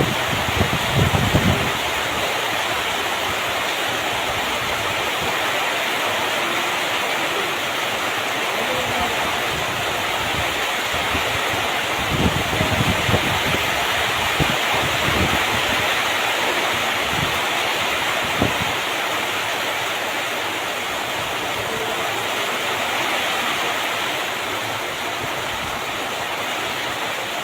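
A steady rushing, hissing noise with a few short low rumbles of wind on the microphone, near the start and several times in the middle.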